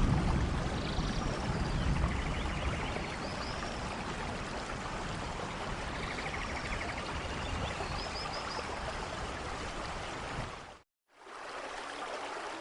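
Steady rain falling in a forest, with the tail of a low thunder rumble fading at the start and a few faint high chirps over it. Near the end the sound cuts out completely for a split second, then the rain resumes.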